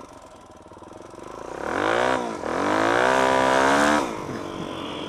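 Single-cylinder four-stroke dirt bike engine revving up under throttle. Its pitch climbs, dips briefly about two seconds in, then climbs again and holds high and loud. The throttle shuts off sharply about four seconds in, and the engine drops back to a low run.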